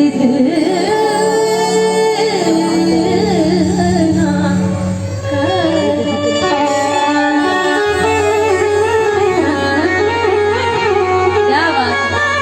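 Live Indian devotional bhajan music: an ornamented melody that glides and bends in pitch, sung or played without words, over sustained low drone notes.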